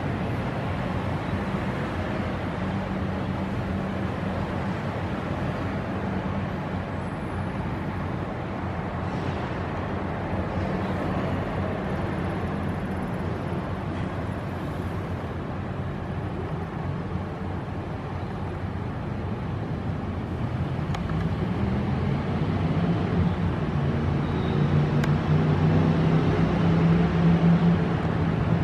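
Steady road traffic noise. About two-thirds of the way in, a motor vehicle's engine comes up, rising in pitch and getting louder toward the end.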